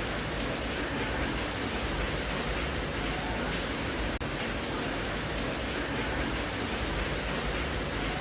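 Steady rain, an even hiss without let-up, broken only by a momentary dropout about four seconds in.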